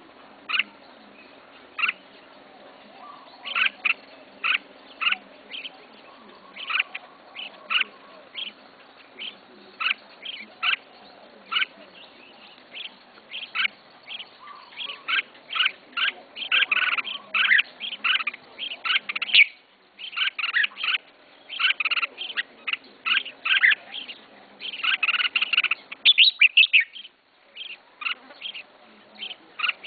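Red-whiskered bulbul singing in short, bright chirping phrases, spaced out at first and coming thicker and faster from about halfway in.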